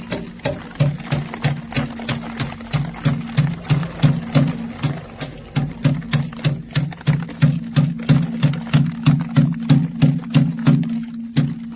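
Sorghum being threshed: regular knocking about two to three times a second over a steady low hum.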